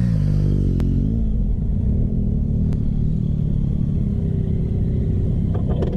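A vehicle engine running with a steady low rumble. Its pitch rises and falls in the first second, and two sharp clicks sound about a second in and near three seconds in.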